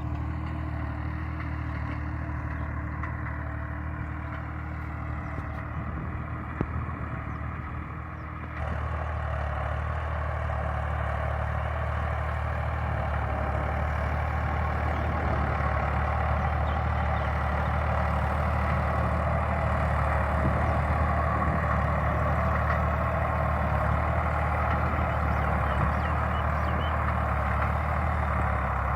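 Massey Ferguson 260 Turbo tractor's diesel engine running steadily while pulling a tine cultivator. About eight and a half seconds in, it suddenly becomes louder and fuller.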